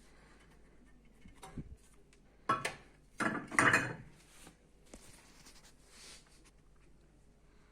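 Hard objects knocking and clattering together: a single knock, then a short cluster of sharp clatters about two and a half to four seconds in.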